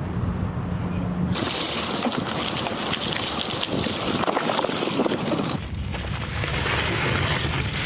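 Wind rushing over an action camera's microphone while riding, a steady hiss with low rumble. About a second in it jumps abruptly to a much louder, harsher rush, then drops back to a lower rumble about two seconds before the end.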